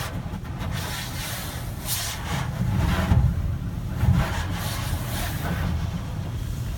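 Tunnel car wash equipment running: a steady low rumble with repeated hissing, swishing surges that peak about three and four seconds in.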